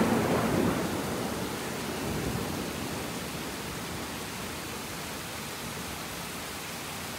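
Heavy rain falling steadily, with the rumble of a thunderclap dying away over the first second or two.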